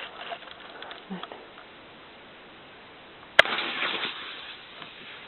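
A single sharp pop about three seconds in as an airsoft BB punctures a paint grenade, followed by about a second of hissing spray as the grenade bursts and sprays paint.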